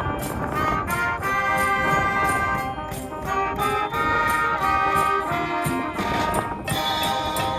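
School wind band playing a send-off piece: brass (trumpets and trombones) carrying the melody over a steady percussion beat.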